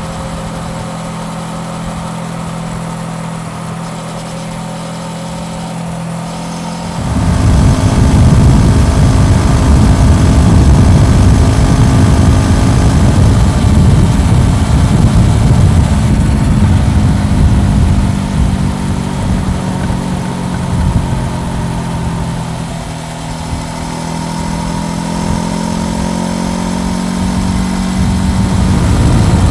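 Honda CBR400R motorcycle's parallel-twin engine running steadily, then about seven seconds in the sound jumps much louder, with a deep rushing noise under the engine. It eases somewhat later on and builds again near the end.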